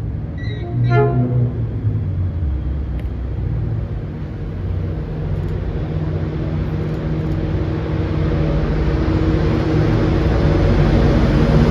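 82 class diesel-electric freight locomotives approaching, their engines running with a steady hum that grows louder.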